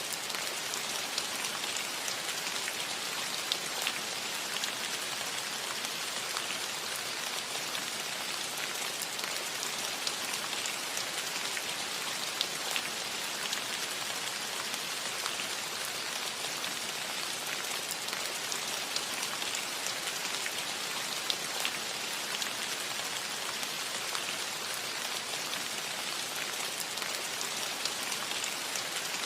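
Steady rain falling on a cottage roof: an even hiss with scattered individual drops ticking sharply through it.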